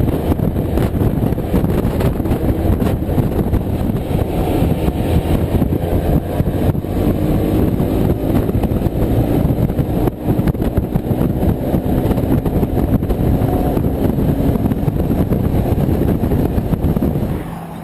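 Motorcycle on the move: steady engine and wind noise on the microphone. Near the end it drops suddenly to a quieter, steady low hum as the bike slows.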